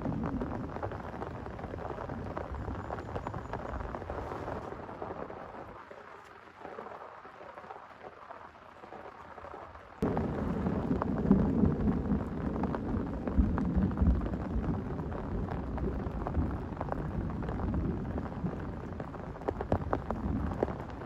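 Heavy rain falling with many separate drops, under rolling thunder. The rumble dies down to a quieter stretch in the first half, then jumps back up suddenly about halfway through and keeps rolling.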